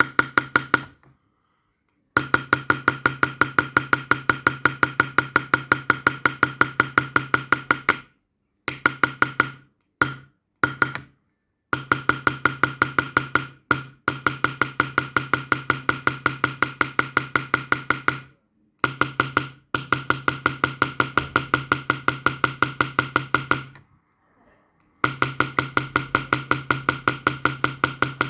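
Rapid, evenly paced hammer taps on a steel engraving or chasing tool working silver by hand, about five or six strikes a second with a metallic ring. The runs of taps stop and restart abruptly several times.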